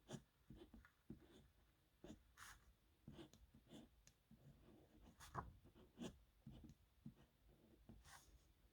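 Faint scratching of a metal nib pen on paper, in short, irregular strokes with brief pauses between them.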